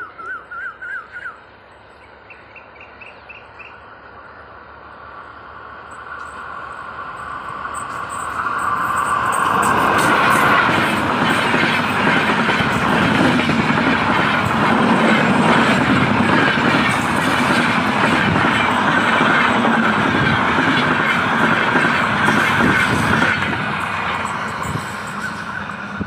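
Express passenger train hauled by a WAP-4 electric locomotive passing at high speed. The rush of wheels on rail builds over about ten seconds into a loud, steady clatter as the coaches go by, then begins to fade as the train draws away. A run of quick chirps sounds near the start.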